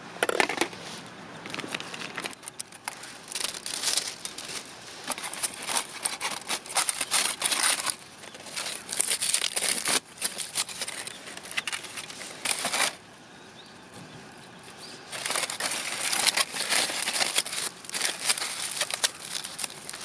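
Irregular crinkling and rustling in quick, uneven bursts, with a pause of about two seconds a little past halfway.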